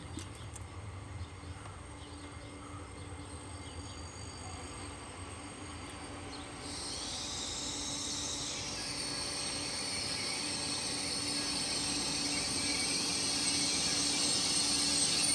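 Train approaching, its running noise growing steadily louder, with a high-pitched whine from the rails joining about halfway through.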